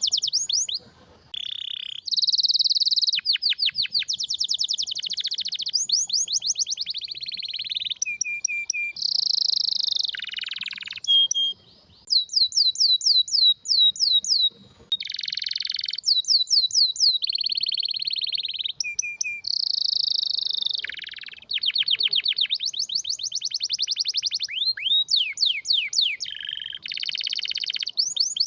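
Domestic canary singing a long song of rapid trills, each a run of quick repeated notes. It switches to a new trill every second or two, with a few brief pauses.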